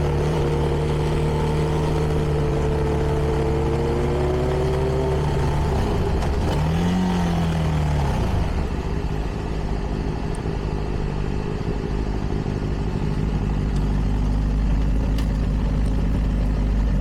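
CFMoto 300NK's single-cylinder engine through its stock exhaust, running at a steady pitch while cruising, then dropping off about five seconds in. A short rise and fall in revs follows around seven seconds, and from about eight and a half seconds it settles into a low, even rumble.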